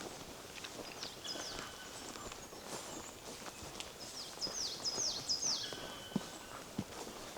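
Footsteps on a forest path with songbirds singing: a quick run of high, falling chirps about four seconds in, a few more about a second in, and some thin held whistles.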